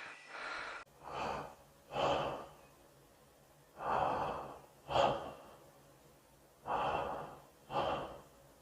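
Slow, audible deep breathing in three cycles, each made of two airy puffs of breath about a second apart, with short pauses between the cycles.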